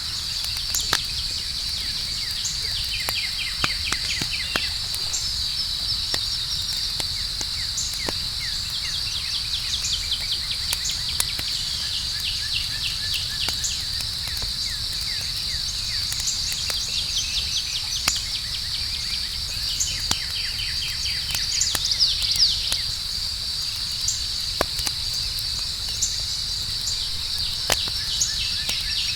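Campfire crackling with scattered sharp pops over a low steady rumble, set against crickets trilling in a constant high chorus, with short trains of chirps now and then.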